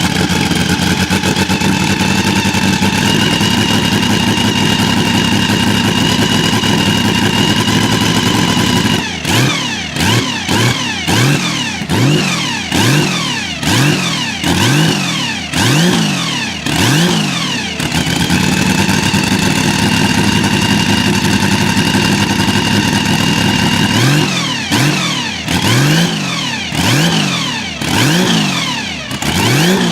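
Porsche 935 K3's turbocharged flat-six racing engine running loud. It holds steady revs for about nine seconds, then is revved up and cut back about once a second for several seconds. It is steady again for a while, and the rev-and-cut pattern returns near the end.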